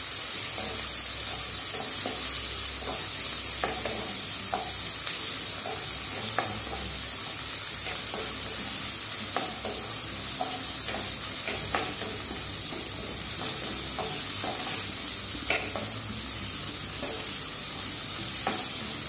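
Shallots, garlic and tomato sizzling steadily in oil in a clay pot. They are being stirred with a wooden spatula that scrapes and knocks against the pot every second or two.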